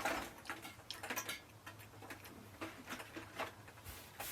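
Faint, scattered light taps and clicks of empty aluminum drink cans being handled and set down.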